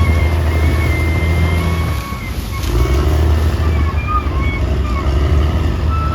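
Caterpillar D6R XL bulldozer's diesel engine working under load, easing off about two seconds in and picking up again a second later, with thin high squealing tones over it.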